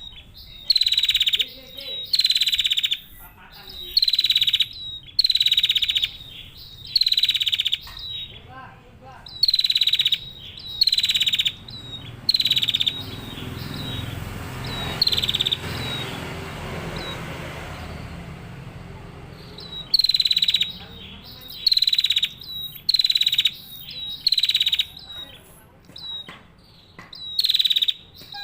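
Female prinia (prenjak) calling: a series of fast rattling bursts, each about half a second long and opening with a sharp high note, coming roughly once a second. The calls stop for several seconds in the middle, leaving a low rumbling noise, then start again.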